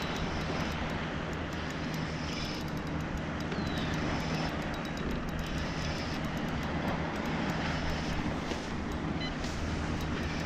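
A steady low mechanical drone, like a distant engine, with a hiss over it.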